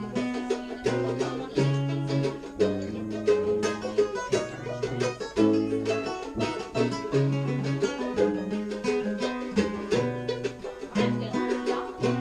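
Acoustic string band playing an instrumental break without singing: quick picked notes on plucked strings over a line of low notes.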